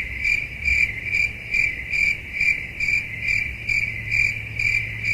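Cricket chirping in an even rhythm, about two chirps a second, over a steady low hum.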